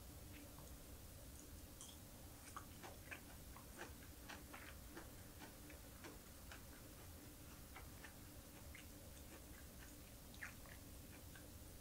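Faint, irregular small clicks and crackles of close-miked chewing on small anchovies and green peppers, with light taps of wooden chopsticks picking food off the plate. The clicks come thickest a few seconds in and again near the end.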